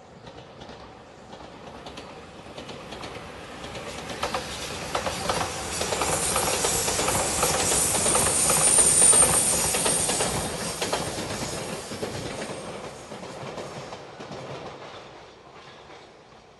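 Anpanman-liveried JR Shikoku express train passing, its wheels clicking rhythmically over the rail joints. It grows louder, peaks about halfway through with a high hiss, then fades away.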